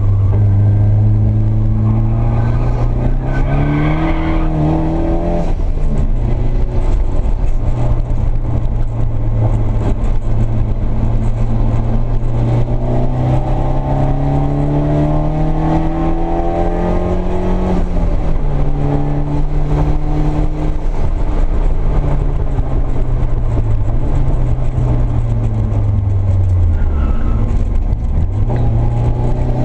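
Nissan 240SX S13's SR20DET engine running hard on track, heard from inside the cabin. The revs climb and hold, fall off sharply past the halfway point, and dip low near the end before rising again.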